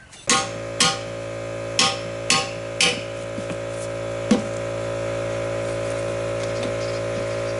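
Six sharp knocks, hammer blows in the work of forcing a lawn tractor's tubeless tire onto its rim, spread over the first four and a half seconds. Under them runs a steady motor hum that starts with the first blow.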